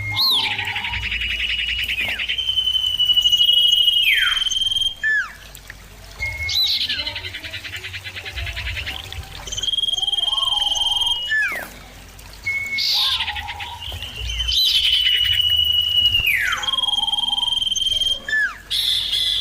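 Common iora (cipoh) singing. Each phrase has a fast trill, then a long steady whistled note and quick falling slurred notes, and it repeats about every six and a half seconds.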